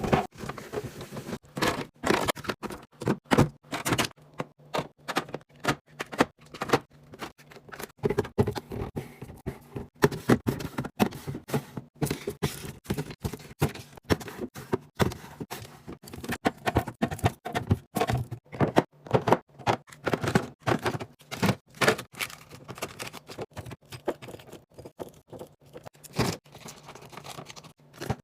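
Rapid, irregular clicks, taps and knocks of food containers and packages being handled and set down while a fridge is restocked, with a few louder knocks among them.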